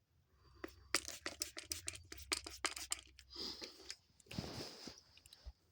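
Water splashing as a dove bathes in a small tub and flaps in the water: a quick run of sharp splashes lasting about two seconds, then two short hissing bursts.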